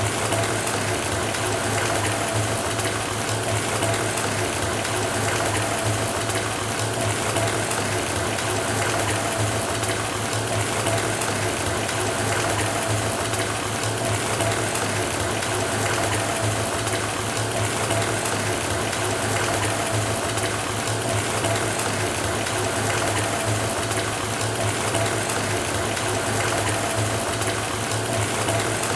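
Bathtub faucet running steadily, water pouring into the filling tub, with a low steady hum beneath the rush of water.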